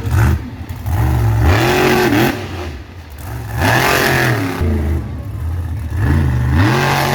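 Monster truck engine revving hard in repeated surges during a freestyle run, its pitch climbing and dropping about four times.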